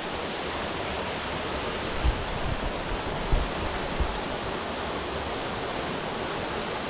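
Steady rushing of a waterfall, with a few short low thumps about two, three and four seconds in.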